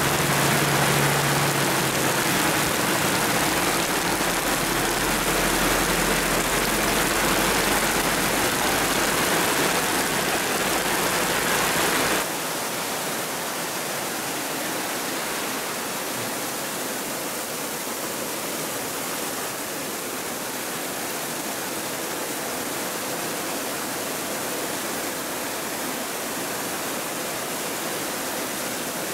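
Heavy rain pouring down in a steady hiss. For the first dozen seconds it falls on corrugated metal roofs with a low vehicle rumble underneath. After a sudden cut it falls on trees and a muddy dirt yard, a little quieter.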